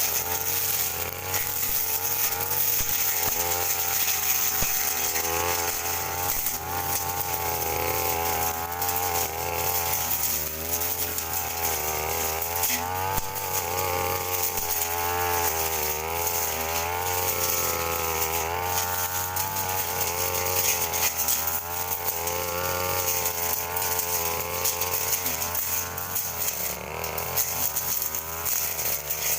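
Two-stroke brush cutter engine running at high revs while cutting grass, its pitch wavering up and down as the load on the blade changes.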